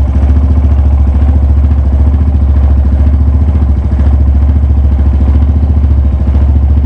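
Yamaha Fazer 250's single-cylinder engine idling steadily through a straight-through exhaust, an even rapid pulse with a very strange engine noise in it, which is said to get worse once the engine warms up.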